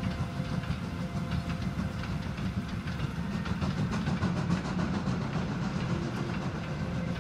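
Freight train of boxcars hauled by a steam locomotive passing at a steady speed, its wheels running on the rails in an even, continuous noise.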